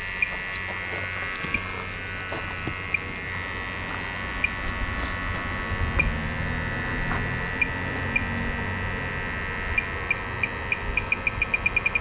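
Electronic detector buzzing steadily and giving short high beeps about every one and a half seconds. Near the end the beeps speed up into a rapid run as the detector closes in on the spot it is pinpointing.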